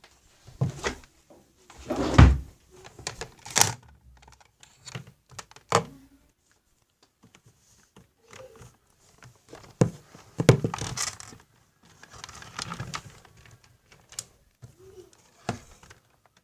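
Household handling sounds: a string of irregular knocks, thunks and clicks, with two short spells of rustling or scraping in the second half.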